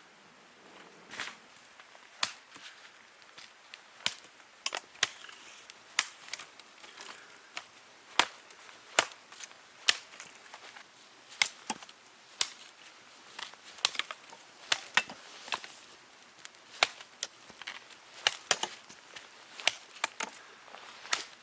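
Irregular sharp wooden cracks and snaps, about one or two a second, some much louder than others.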